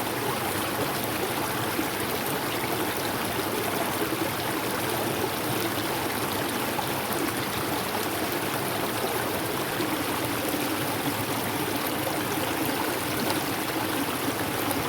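Mountain river flowing, a steady even sound of running water.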